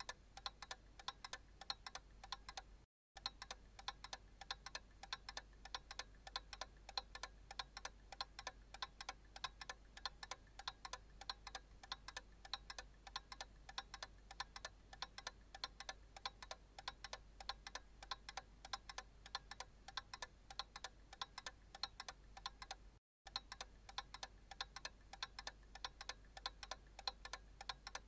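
Analog clock ticking steadily, a quiet run of sharp, evenly spaced ticks, broken by two very brief gaps of silence about three seconds in and again about twenty-three seconds in.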